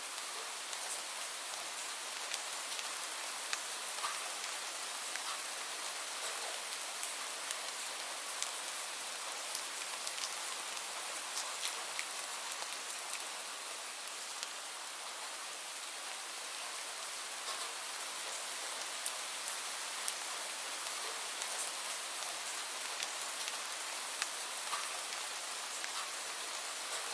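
Steady rain falling: an even hiss with many small raindrop ticks throughout.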